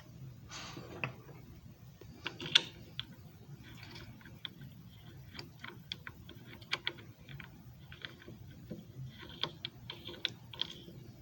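Small hard objects being handled: irregular light clicks and clacks at uneven intervals, with a few louder taps.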